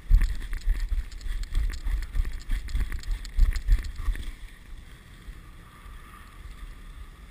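Wind buffeting the microphone of a moving dog sled, a gusty low rumble with jolts, loudest for the first four seconds or so and then quieter and steadier.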